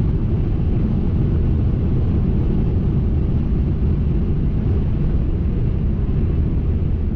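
Steady low rumble of road and engine noise inside a motorhome's cab while driving on the highway.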